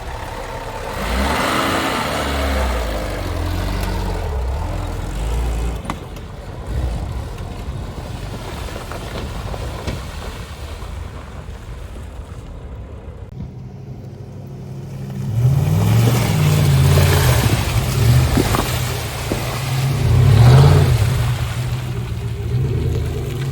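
Nissan Patrol Y61's engine revving hard as the 4x4 is driven off-road, the pitch rising and falling. It dips for a moment, then comes back louder with a second stretch of hard revving about two-thirds of the way through.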